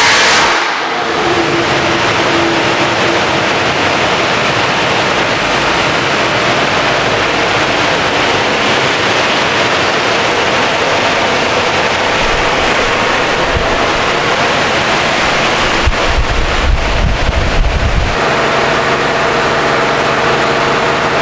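Supercharged LT4 V8 of a Cadillac CT5-V Blackwing ending a wide-open-throttle dyno pull, lifting off right at the start. Then a steady loud rush of air and machinery as the car coasts down on the chassis dyno rollers, with a low rumble building and stopping about three quarters of the way in, after which the engine is heard idling.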